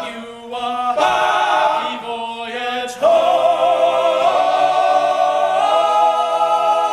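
Male a cappella group singing in close harmony, ending on a long held chord with vibrato that starts about three seconds in.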